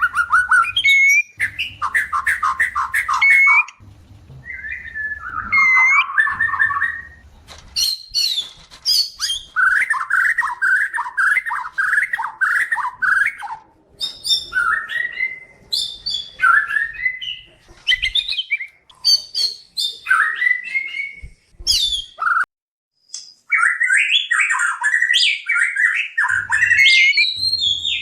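White-rumped shama singing in breeding condition: fast runs of repeated chattering notes lasting a couple of seconds each, alternating with loud, sharp whistled glides, with a brief pause about three-quarters of the way through.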